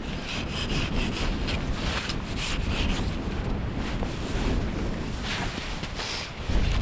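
Wind buffeting the microphone as a steady low rumble, with irregular scraping and crunching sounds over it.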